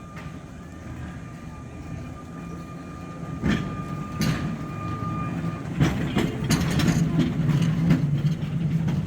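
Sóller tram running on its track, its rumble growing louder, with a couple of sharp knocks and then rapid clacking of wheels over rail joints from about six seconds in.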